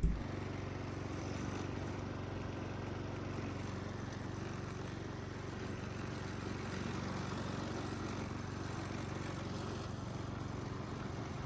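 Small engine running steadily at an even speed, with a constant low hum.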